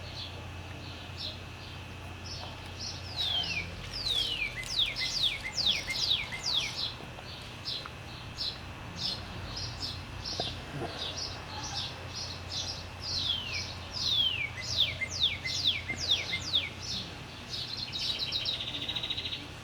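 Songbird singing: runs of quick down-slurred whistles repeated in series, with scattered short high notes and a rapid trill near the end.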